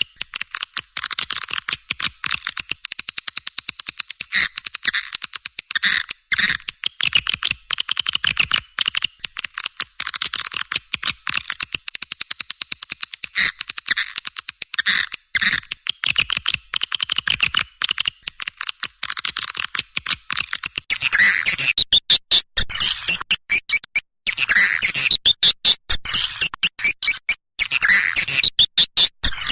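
Recorded swiftlet calls of the kind played to call swiftlets in: a dense, rapid high twittering of many chirps a second, with no low end, growing louder and coarser about 21 seconds in.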